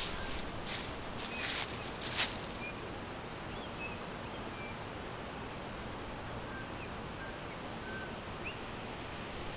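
Forest ambience: a steady background hiss with scattered short, faint bird chirps. Several brief rustles in the first couple of seconds, the loudest about two seconds in.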